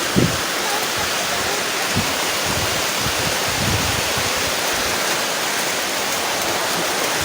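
Heavy typhoon rain pouring in a steady, dense hiss as wind blows. A few brief low puffs of wind hit the microphone.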